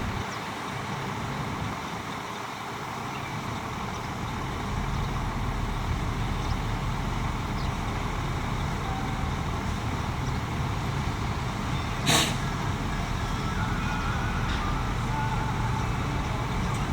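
Heavy diesel earthmoving machinery running steadily, getting louder about five seconds in, with one short, sharp burst of noise about twelve seconds in.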